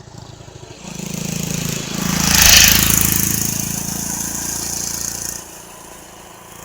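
A motor vehicle's engine passes close by, swelling to its loudest about two and a half seconds in and then fading away.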